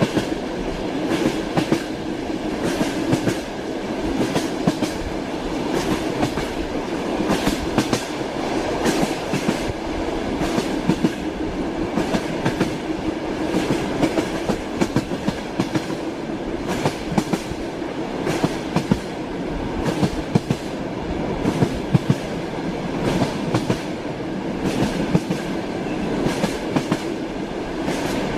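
Moving train heard from inside a railway carriage: a steady rumble with frequent, irregular clicks and clacks of the wheels over the rails.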